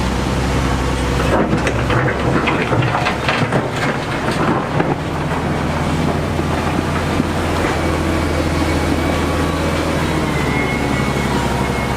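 A heavy construction machine's engine runs steadily, with a burst of clattering and knocking from about one to five seconds in.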